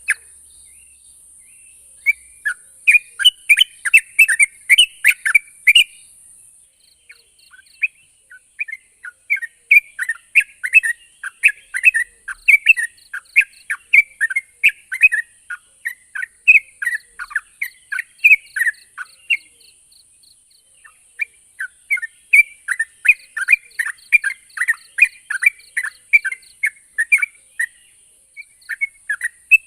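Yellow-vented bulbul (burung trucuk) calling: runs of quick, bubbly chattering notes, about two a second, in three spells with short breaks between, over a faint steady hiss.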